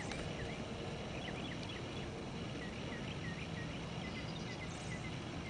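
Outdoor background: a steady low rumble with a run of faint, short, high chirps from a small bird, a few a second.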